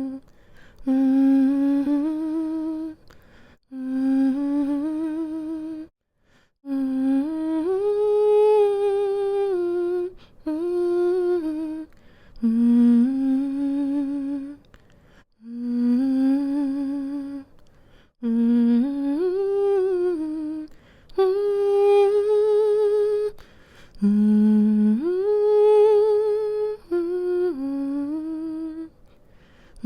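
A woman humming a slow, soothing lullaby melody to lull a baby to sleep, in phrases of a few seconds each with short breath pauses between them.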